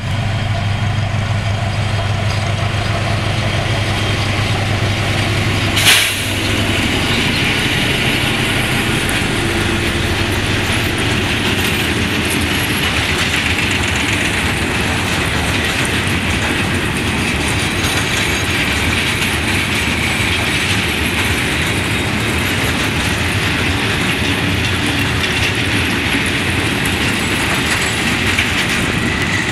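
SM42 diesel shunting locomotive drones at a steady low pitch as it approaches, hauling a train of loaded hopper wagons. About six seconds in there is one sharp knock. After that the engine drone gives way to a steady rushing clatter of the wagons' wheels rolling past on the rails.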